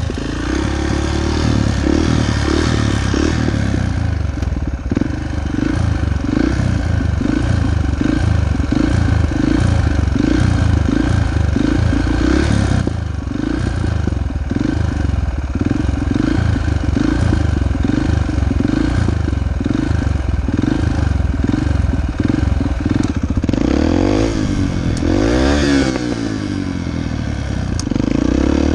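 Dirt bike engine running loudly, its note pulsing about twice a second. Near the end the revs rise and fall a few times.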